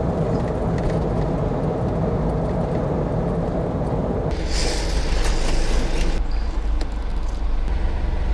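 Camper van driving, with a steady engine and road rumble heard in the cab. About four seconds in, a louder hiss lasts for about two seconds, then the sound changes again.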